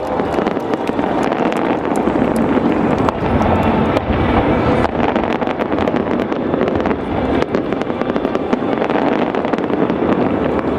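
Fireworks display going off in a rapid, continuous barrage of overlapping bangs and crackles.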